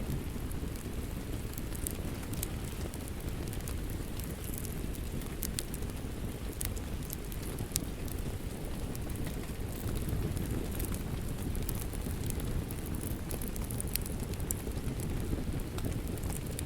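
Steady rain with a crackling wood fire: a constant low rush of rain, with scattered sharp pops and crackles from the fire.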